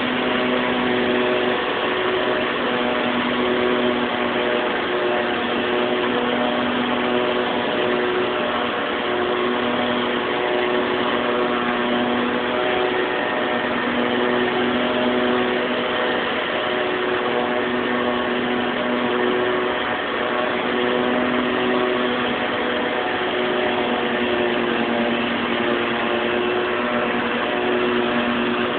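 Tractor engine running at a steady speed, an even drone with no change in revs.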